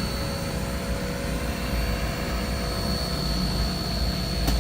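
Steam locomotive running steadily: a continuous low rumble with a thin, steady high-pitched whine over it. There is a single short click near the end.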